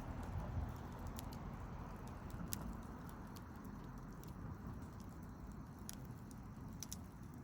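Wood campfire burning: a steady low rush of flames with a few scattered sharp crackles and pops from the burning wood.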